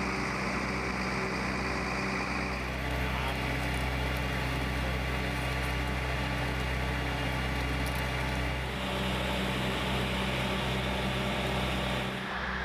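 Engine of a road-rail catenary maintenance truck running steadily at a constant low pitch, with a noisy mechanical layer above it that changes in character a couple of times.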